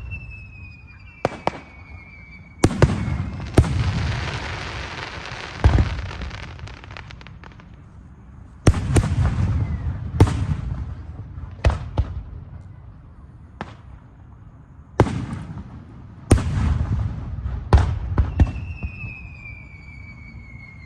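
Aerial fireworks shells bursting in a rapid series of loud bangs, each with a rumbling echo, and a long crackle after the bursts a few seconds in. A thin falling whistle sounds near the start and again near the end.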